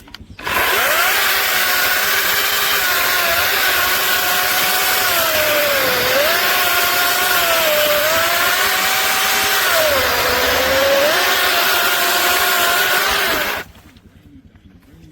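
ReliaRoads 16-inch 40V brushless cordless chainsaw running at full trigger with a steady electric motor whine and chain noise. The pitch sags twice as the chain takes load in the cut, recovering each time. The saw stops abruptly near the end.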